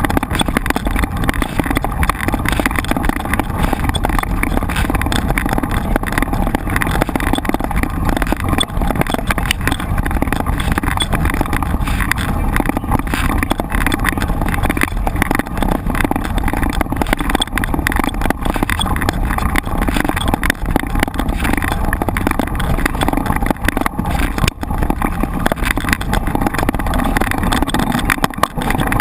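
Mountain bike ridden over a trail or dirt road: a steady loud rush of wind on the microphone mixed with tyre and frame rattle.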